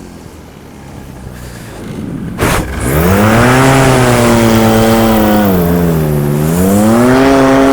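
Paramotor engine and propeller throttled back to a low idle, then revved back up about three seconds in, with a short rush of noise just before. The engine sags once more around six seconds and climbs again near the end.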